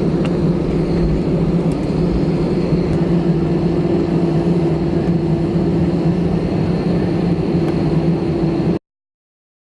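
Steady, loud drone of a vehicle under way, a constant low tone over a rushing noise, which cuts off abruptly near the end.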